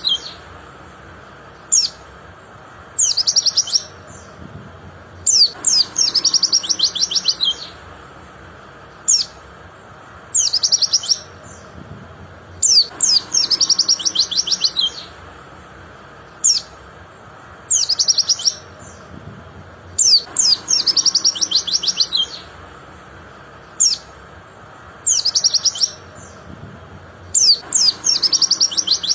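White-eye (pleci) singing: fast, high trilled song phrases of about one to two seconds, repeated every few seconds, with short single chirps between them.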